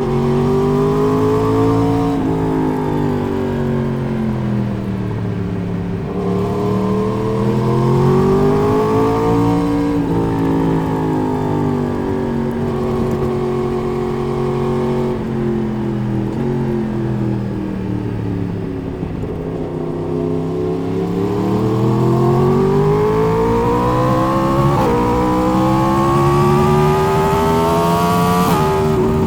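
Four-cylinder sport motorcycle engine heard from onboard, accelerating and easing off over and over: its pitch climbs with short sharp dips at upshifts, then falls away as the throttle closes, several times over.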